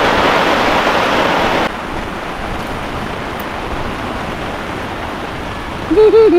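Steady rushing noise of heavy rain and wind that drops suddenly to a quieter level about a second and a half in. A high voice calls out briefly near the end.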